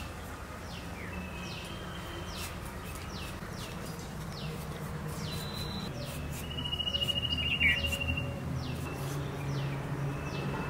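Birds chirping over and over in short, quick downward notes, with a fast buzzy trill from about six to eight seconds in, over a low steady background hum.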